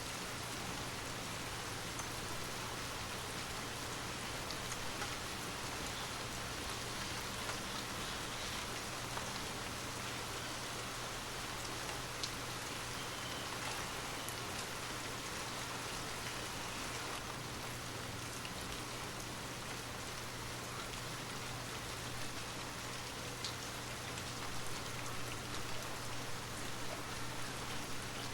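Steady rain falling, with now and then a single distinct drop tapping, over a low steady hum.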